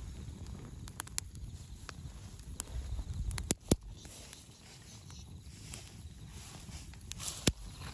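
Dry firewood burning in an open bonfire, crackling with scattered sharp pops over a low rumble; the loudest pops come about three and a half seconds in and again near the end.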